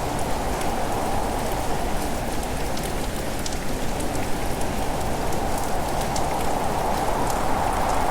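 Steady heavy rain falling, a dense even hiss with scattered drop ticks on top.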